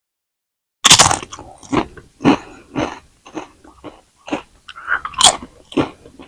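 Crispy french fries bitten with a loud crunch about a second in, then chewed with repeated crunches about twice a second.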